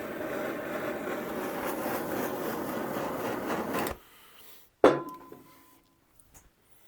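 Heat gun blowing steadily as it warms the top of the fork leg so the new fork seal will seat, switched off about four seconds in. About a second later comes a sharp metallic clink that rings briefly.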